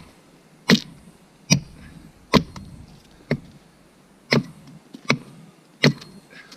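Axe chopping into the trunk of a fallen tree, hewing it flat to make a log-stove fire: seven sharp blows, about one every 0.8 seconds.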